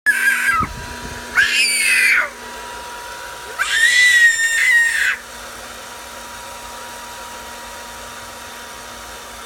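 Three high-pitched squeals, the last one the longest, followed by a steady low hum.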